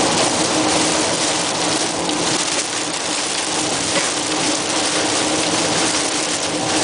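Heavy rain beating on a moving car while it drives on a wet road, a steady loud wash of noise with a low hum beneath it.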